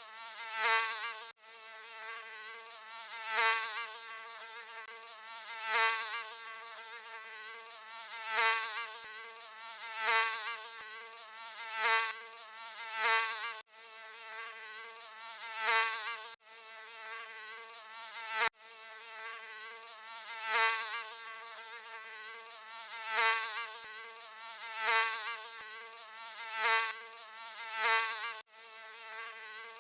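Mosquito wing whine: a thin, continuous buzz that wavers in pitch and swells loud about every two seconds, as on close passes. Several times it cuts out abruptly for an instant.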